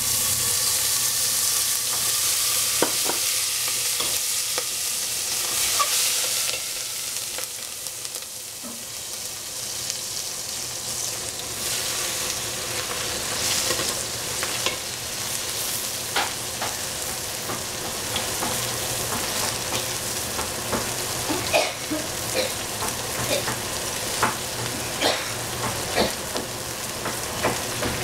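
Eggplant and capsicum sizzling in hot oil in a pan while a spatula stirs them, clinking and scraping against the pan. The sizzle is loudest in the first several seconds, and the spatula knocks come more often in the second half.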